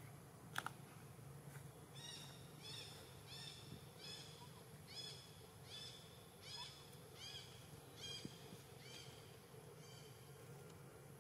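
A bird calling over and over: a regular run of about a dozen short, high, arched notes, roughly three every two seconds. The calls start about two seconds in and fade near the end, after a single sharp click at the start.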